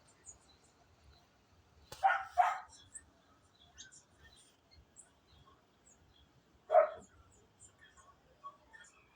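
A dog barking: two quick barks about two seconds in and one more near seven seconds. Faint high bird chirps go on underneath.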